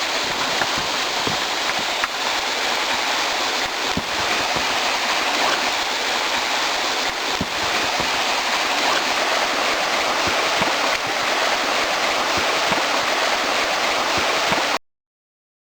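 Steady rushing water, an even hiss with a few faint ticks, cut off suddenly near the end.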